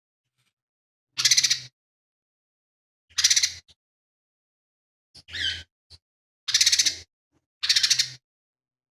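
Lesser green leafbird (cucak ijo mini) singing in short, harsh, rattling phrases, about five bursts roughly a second apart, one with a falling note. This is the bird's mimicked 'isian' repertoire of rough calls from other species such as the collared kingfisher.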